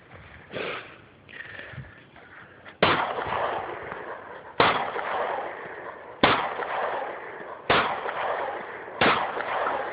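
Five semi-automatic pistol shots fired at a steady pace about a second and a half apart, each sharp crack followed by a second of echo.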